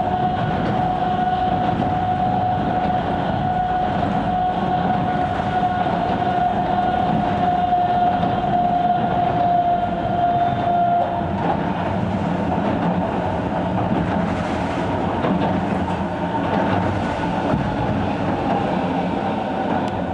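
Sangi Railway Hokusei Line 270-series narrow-gauge electric train running, heard from inside the car: a steady rumble and wheel clatter, with a whine that sinks slightly in pitch and stops about halfway through.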